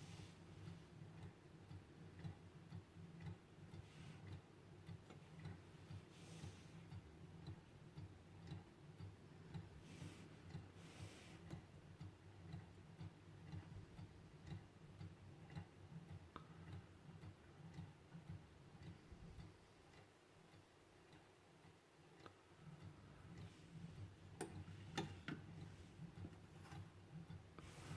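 Hand-made Stirling engine running, with a fast, even ticking. The ticking weakens for a couple of seconds about twenty seconds in, and a few sharper clicks come near the end.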